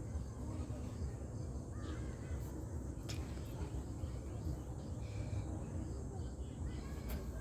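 A harsh, caw-like bird call about two seconds in, over a steady low rumble, with a few sharp clicks.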